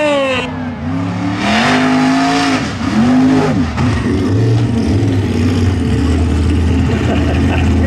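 Mud bog race truck engine revving hard through the mud pit. The revs drop sharply at the start, climb and hold about a second and a half in, rise and fall briefly again a little later, then settle to a steadier, lower note for the rest.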